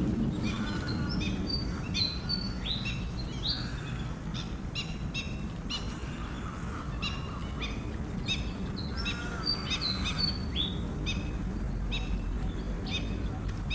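Small birds chirping, short high notes repeated in quick runs throughout, over a steady low rumble of background noise.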